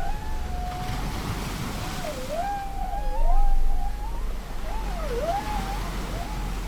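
Whale song over ocean waves: one wavering call that holds a level pitch and then swoops down and back up several times. The wash of surf swells twice beneath it.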